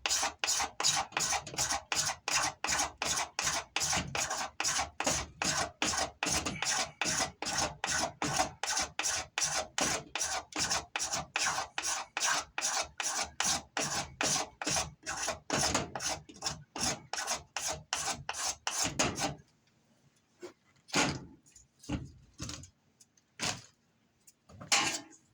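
Fatwood being scraped with a blade in quick, even strokes, about three a second, taking off curls or shavings. The strokes stop about three-quarters of the way through, and a few separate scrapes follow.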